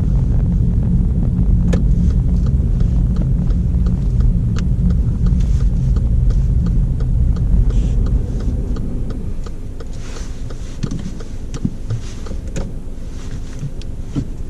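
Petrol car heard from inside the cabin as it slows to pull over: low road and engine rumble that drops away about nine seconds in as the car comes to a stop. The direction indicator ticks steadily throughout.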